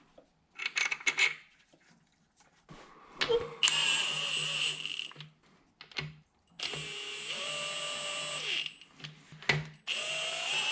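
Handheld power drill/driver run in three short bursts, spinning up and winding down each time, as bolts are run in snug before torquing. A few light metal clatters and a knock come first.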